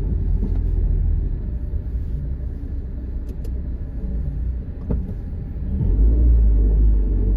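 Car driving, heard from inside the cabin: a steady low rumble of engine and tyres on the road, with a single sharp click about five seconds in and the rumble swelling louder near the end.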